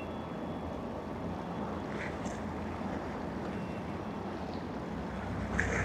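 Steady harbour background noise: a low rumble of boat traffic with wind and water. The rumble grows a little louder near the end, and a couple of brief high chirps sound about two seconds in and near the end.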